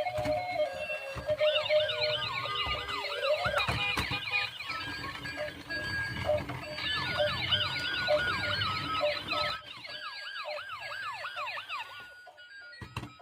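Toy police car's electronic siren sounding in quick, repeated rising-and-falling yelps that stop near the end.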